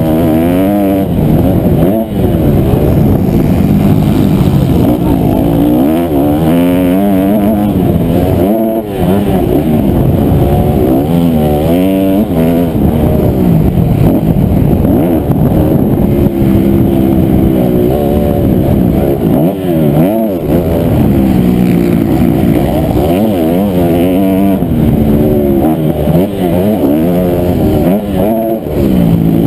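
Honda CRF250R single-cylinder four-stroke motocross engine running hard, its pitch rising and falling over and over as the throttle is opened and shut.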